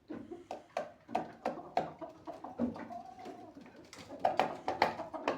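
A run of sharp, irregular taps and knocks, several a second, with one short low call about three seconds in, fitting an Aseel rooster moving and pecking in a small room.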